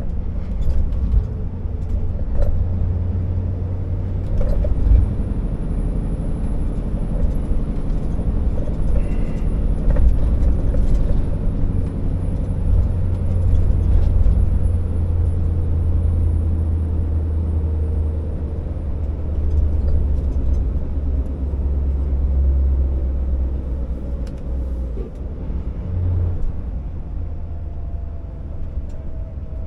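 Scania R650 timber truck's V8 diesel engine running steadily while pulling a heavy load, a low deep drone that eases off near the end.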